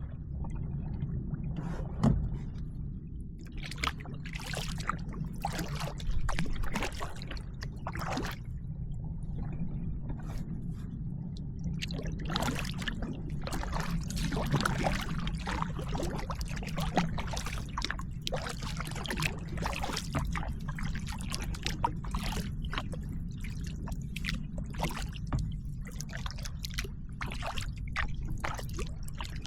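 Kayak paddling: the paddle blades dip and splash in the water in irregular strokes, with water trickling and dripping off them, over a steady low rumble.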